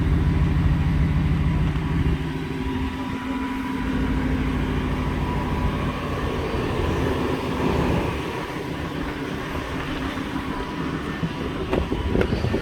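Supercharged 5.0-litre V8 of a Shelby Super Snake F-150 running with a deep, steady rumble, loudest in the first couple of seconds. A few sharp knocks come near the end.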